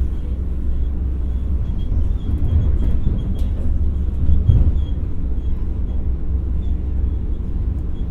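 Interior running noise of an X60 electric multiple unit: a steady low rumble of the train rolling on the track, with a faint high whine coming and going and a single click about three and a half seconds in.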